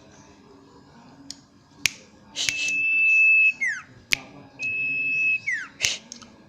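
Common iora (cipoh bird) singing: two long, even whistles of about a second each, each ending in a quick falling slur, with several sharp clicks between them.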